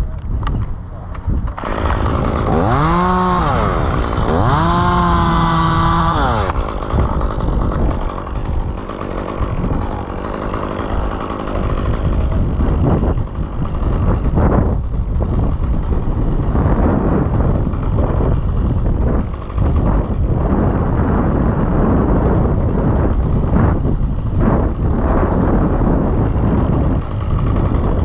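Chainsaw revved up twice in quick succession, its pitch climbing and dropping each time, then running on in a long, ragged, steady stretch.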